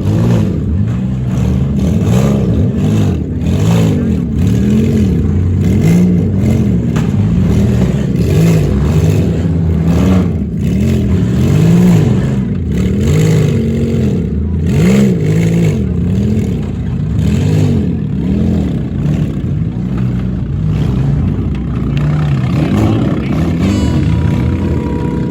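Several demolition-derby cars' V6 engines revving hard, their pitch rising and falling over and over as they overlap, with scattered sharp bangs mixed in.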